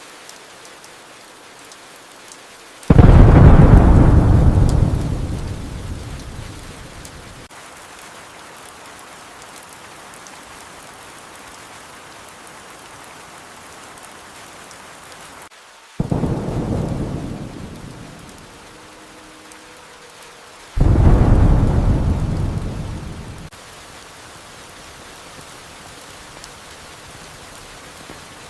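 Steady rain with three claps of thunder, each starting suddenly and rumbling away over a few seconds; the first, about three seconds in, is the loudest and longest, and the other two come near the middle and about two-thirds of the way through.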